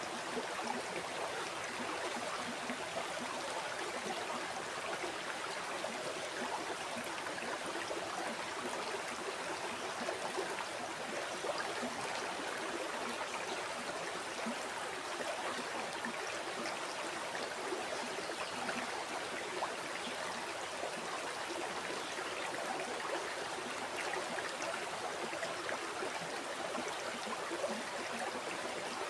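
A river flowing steadily over rocks, a continuous rush of water with small splashes and gurgles.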